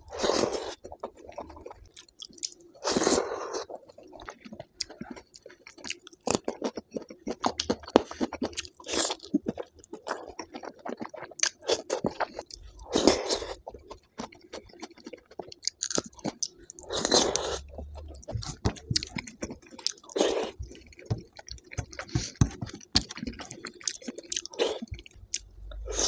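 Close-miked chewing and wet mouth sounds of a person eating dal and rice, with many small clicks and a louder bite every few seconds.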